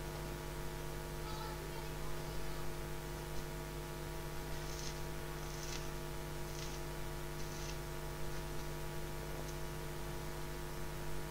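Steady electrical hum made of several fixed tones, with four faint short hisses about a second apart a little before the middle.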